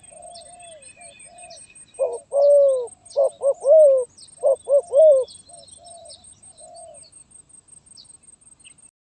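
Spotted dove (terkukur) cooing: soft notes at first, then a louder run of quick, arched coos from about two seconds in until just past five seconds, trailing off into soft notes. The song has the broken, stuttering pattern its keeper calls 'gagap'. Faint chirps of small birds and a steady high pulsing tone sit behind it.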